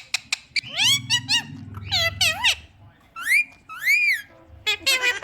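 Cockatiel whistling: a series of short notes that glide up and down, including two arching rise-and-fall whistles, with a few sharp clicks at the start and quick chirps near the end.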